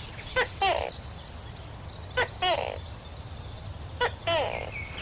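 An animal calling three times, about two seconds apart: each call is a short click followed by a falling tone, with faint high chirps in the background.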